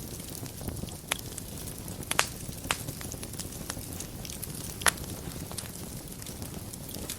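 Wood fire crackling in a fireplace over a low steady rumble, with a handful of sharp pops, the loudest about five seconds in.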